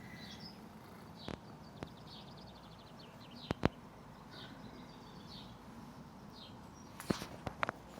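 Small birds chirping again and again over a steady outdoor hiss, with a few sharp close clicks, the loudest a pair about three and a half seconds in and a little cluster near the end.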